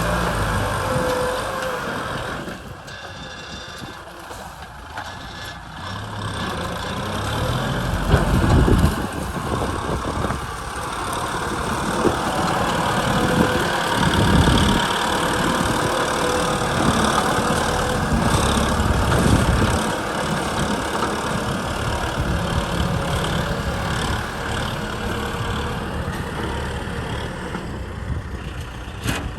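Kubota M6040 SU tractor's diesel engine running, its level dipping a few seconds in and then rising again.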